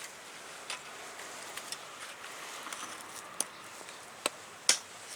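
Wood campfire crackling: scattered, irregular sharp pops and snaps over a low hiss, with the loudest snaps near the end.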